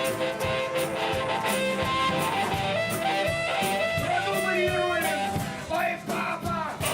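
Live rock band playing: guitar over a steady drum beat, with a melody line that bends in pitch in the second half.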